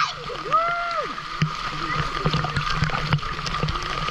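Waterfall water rushing and splashing over rocks, a steady wash with small splashy clicks.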